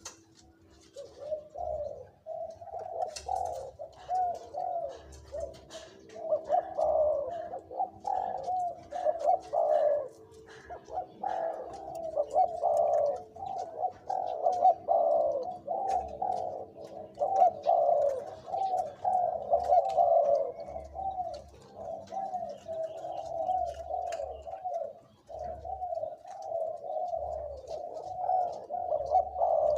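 Spotted doves cooing over and over, deep rolling coos that overlap almost without pause.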